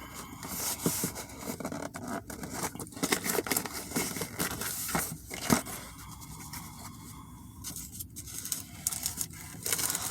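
Paper sandwich wrapper rustling and tearing as it is opened, with irregular crackles and scrapes.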